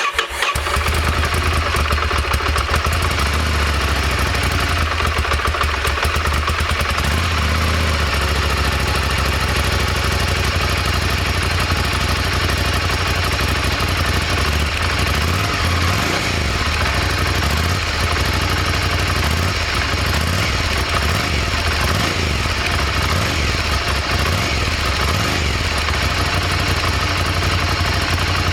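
Ducati Desert Sled's air-cooled L-twin engine idling steadily through its exhaust, with no revs.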